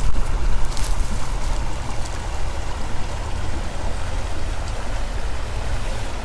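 Steady rush of running water from a small woodland stream, with a heavy low rumble beneath it.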